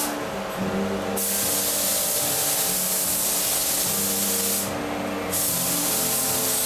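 Paint spray gun hissing steadily as it sprays coating onto an engine block. The spray cuts out twice, once for about a second at the start and once for about half a second around five seconds in, as the trigger is released.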